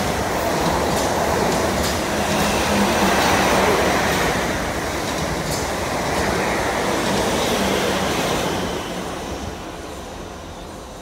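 South Western Railway passenger train running past close alongside the platform: a loud rushing rumble of wheels on rail with a steady low hum and a few sharp clicks. It fades from about eight seconds in as the last carriage goes by.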